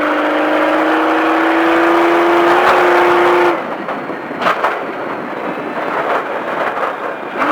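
Baja race truck engine pulling hard under full throttle, its pitch rising slightly, then cutting off abruptly about three and a half seconds in as the driver lifts off the pedal. A sharp thump follows about a second later, with the engine running more quietly afterwards.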